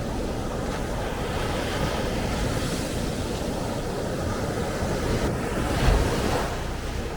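Rough sea surf breaking and washing up a sand beach in strong wind, with wind buffeting the microphone. The wash swells louder about six seconds in.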